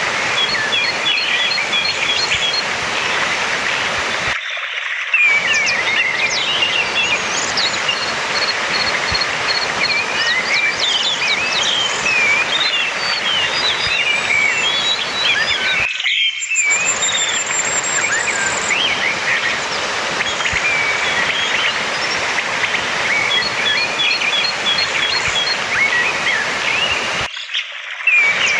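Orange-headed thrush song: a quick run of varied chirps, whistles and twitters over a steady background hiss, including a fast high trill just past the middle. The same passages come round again, and the background cuts out briefly about every twelve seconds.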